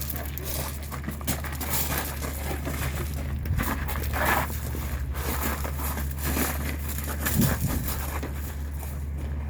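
Scuffling of two people sparring in boxing gloves, with scattered short knocks of glove strikes, over a steady low hum.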